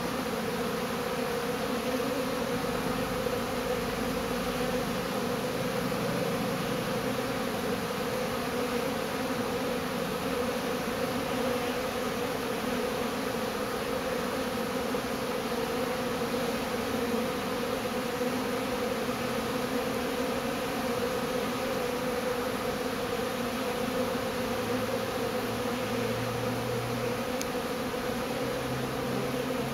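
Steady, dense buzzing hum of a large honeybee swarm clustered close by, many thousands of bees.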